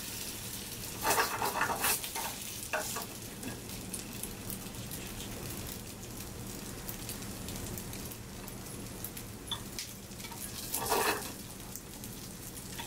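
Surimi-and-tofu patties sizzling in a little oil in a nonstick frying pan on medium-high heat. A few short scrapes and knocks of a slotted turner against the pan come about a second in and again near the end.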